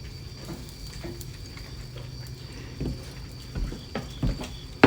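Footsteps, a few scattered thuds, over a steady faint hum, then a sharp knock near the end.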